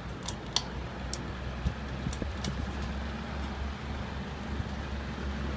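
Two industrial wall-mounted exhaust fans running steadily on medium speed, a constant low hum with air rush. A few light sharp clicks in the first two seconds.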